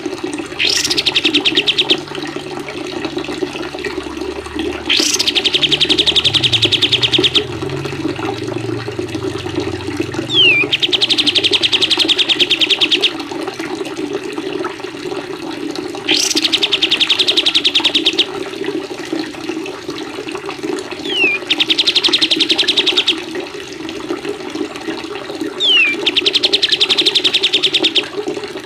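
A songbird's rapid trill of quick repeated notes, about two seconds long, sung six times roughly every five seconds; some trills open with a short falling note. A steady sound of running water continues underneath.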